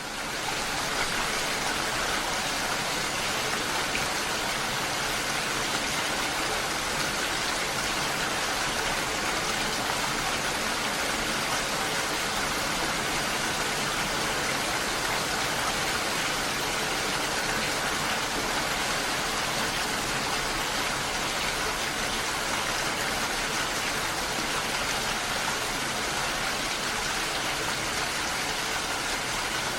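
Steady hiss of falling or running water, fading in over the first second and then holding even.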